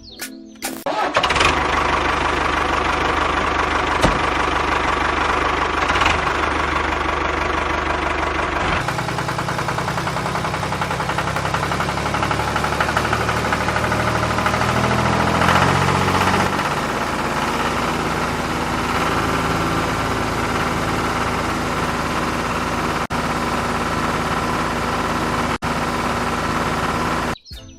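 Tractor engine running steadily. Its low note changes about nine seconds in, and it cuts off abruptly near the end.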